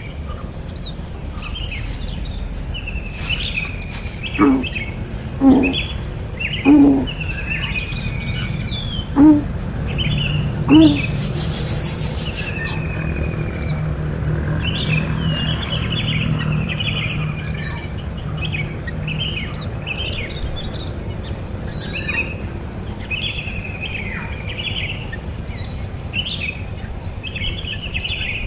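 Small birds chirping, many short high calls repeated throughout over a steady high insect drone. Five loud, short, low calls come between about 4 and 11 seconds in.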